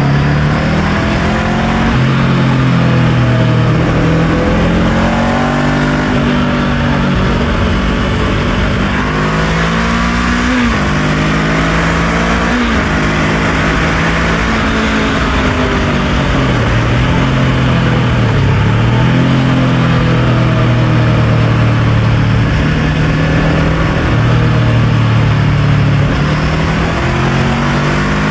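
Honda NX500's 471 cc parallel-twin engine under way, its pitch climbing under throttle and dropping back several times as it changes gear and eases off.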